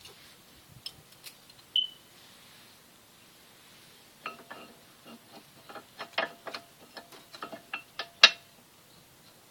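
Metal brake parts and tools being handled and clinking: a few sharp clicks and a short ringing ping, then a quick run of knocks and clinks, the loudest near the end.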